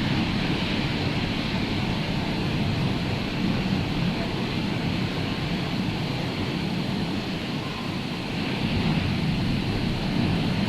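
Rough sea surf breaking steadily, with wind buffeting the microphone; the noise swells and eases every few seconds.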